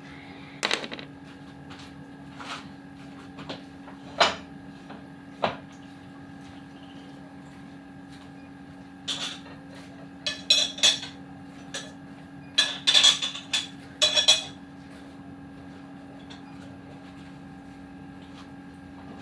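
Metal engine parts and tools clinking and clanking as they are handled and set into a workshop press. The sharp knocks come irregularly, with a dense run of loud clanks about ten to fourteen seconds in, over a steady hum.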